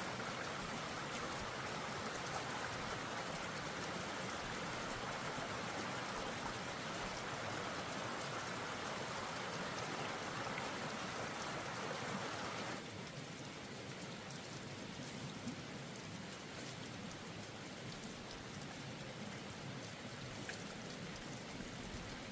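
Steady hiss of falling water spray, like a running shower or rain. About thirteen seconds in it suddenly becomes quieter and thinner, then carries on steadily.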